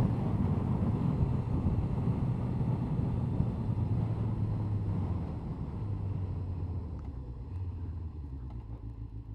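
Honda CBR1100XX Blackbird's inline-four engine running under wind noise as the motorcycle slows. Engine and wind fade steadily, leaving a quieter, steady low hum near the end.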